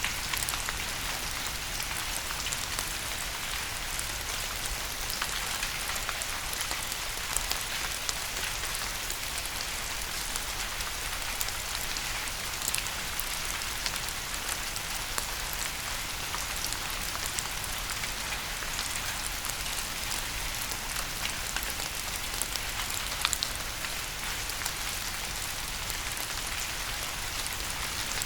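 Steady rain falling on a hard surface: a constant hiss with many separate drops ticking sharply through it.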